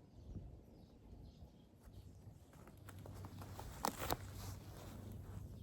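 Faint autumn countryside ambience. A low hum comes in about three seconds in, and two soft clicks follow about a second later.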